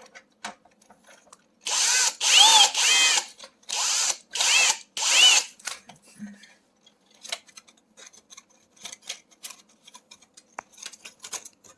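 Power drill/driver running in several short bursts, each winding up and down in pitch, backing out the last screw of a stove's control panel. Light clicks and rattles of handling follow.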